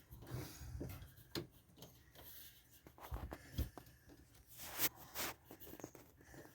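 Scattered clicks, taps and scraping as electrical wire is worked into the groove of a plastic wire chase, with a louder scrape about five seconds in.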